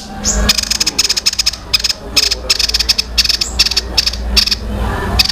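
A songbird singing rapid bursts of very fast, clicking notes, each burst under a second with short gaps between, over a low hum. This is the fast 'tembakan' (machine-gun) song used as masteran, training song for other birds.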